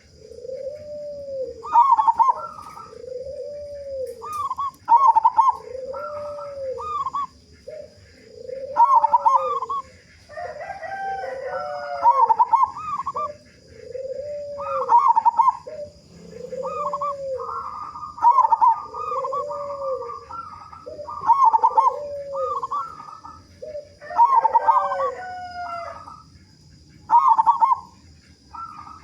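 Zebra dove (perkutut) cooing its repeated song about every three seconds: a few quick higher notes followed by a lower, arched rolling coo. Twice a longer call from another bird, gliding through several pitches, overlaps the song.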